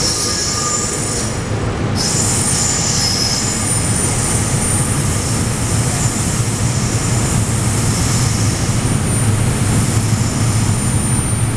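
SEPTA Regional Rail electric train rolling away along the platform track, its wheels squealing in thin, high tones. Under the squeal there is a steady, loud low hum.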